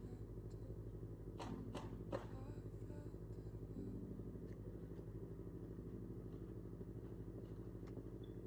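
Motorcycle engine running at a steady pace while riding, a low even hum, with a few short clicks about one and a half to two seconds in.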